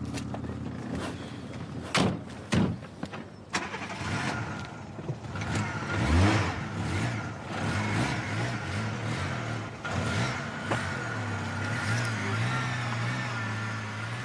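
A car engine idling, with two sharp knocks about two seconds in. Near six seconds the engine revs up as the car pulls away, then runs on with a pitch that rises and falls.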